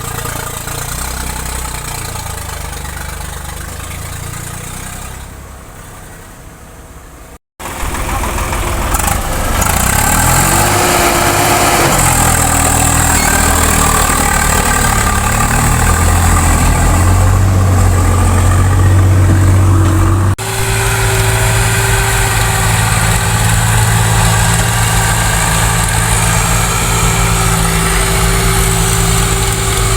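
Tractor diesel engines running, in several clips joined by abrupt cuts. About two seconds in, one engine rises in pitch as it revs up and then holds steady. After a cut partway through, an engine runs steadily at a constant pitch.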